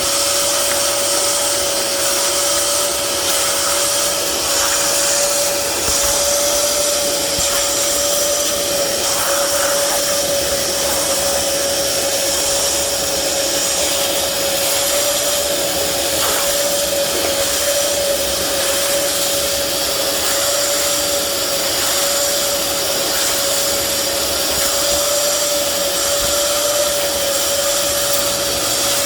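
Hoover Power Dash portable carpet and spot cleaner running, its suction motor giving a loud, steady whine with one constant tone.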